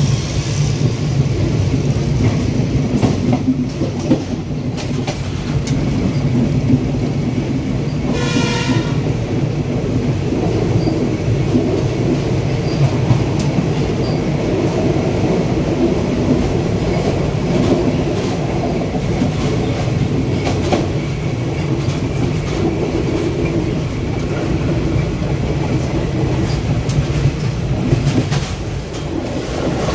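Train running along the track with a steady rumble and wheel clatter. A brief pitched tone sounds about eight seconds in.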